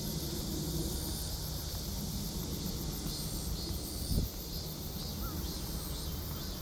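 Insects chirping steadily in a high, pulsing chorus over a low rumble of wind noise, with one short thump about four seconds in.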